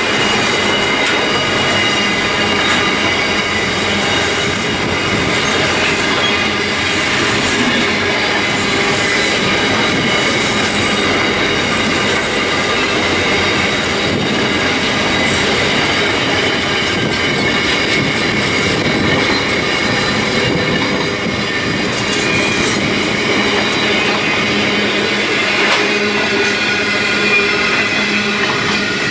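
Freight wagons (louvred box vans, then container flat wagons) rolling steadily past, with a continuous running noise of steel wheels on the rails. Steady high-pitched wheel squeal rings over it.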